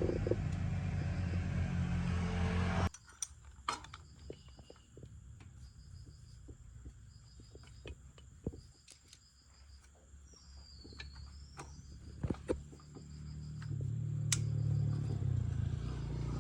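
Motorbike engine running steadily, cut off abruptly about three seconds in. Then a quiet stretch with scattered sharp clicks and a repeated high chirping, and the engine running again over the last few seconds.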